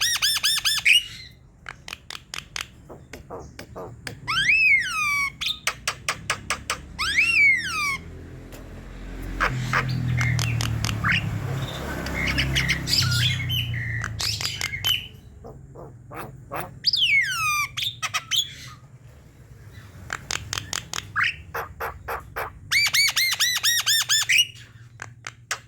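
Javan myna (jalak kebo) calling: bursts of harsh rattling chatter and squawks, broken by several falling, slurred whistles and a longer harsh, hissing stretch in the middle.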